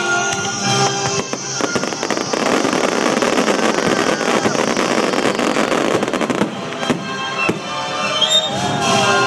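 Fireworks crackling in a dense barrage of many rapid pops for several seconds in the middle, with music playing at the start and end.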